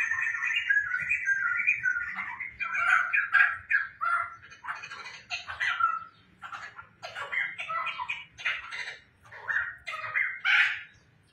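Caged poksai (laughingthrush) calling and singing in loud, chattering, squawky phrases, almost continuous at first and then breaking into shorter bursts with gaps from about halfway on.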